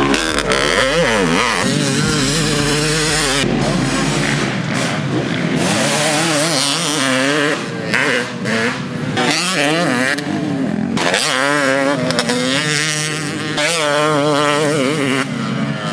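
Yamaha YZ250's two-stroke single-cylinder engine revving up and down again and again, with a few brief drops in revs.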